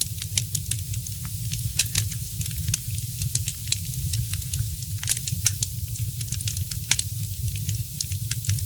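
Wood fire crackling in a fireplace: irregular sharp pops and snaps, a few louder ones about two, five and seven seconds in, over a steady low rumble.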